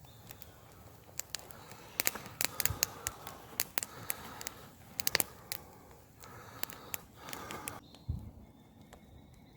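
Campfire crackling: irregular sharp pops and snaps from the burning wood, thickest in the first half, with a dull thump a little after the middle.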